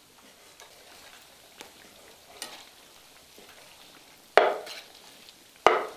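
Pork fat sizzling faintly in a wok as lard renders, with two loud scrapes of the metal ladle against the wok while stirring, about four and a half and nearly six seconds in.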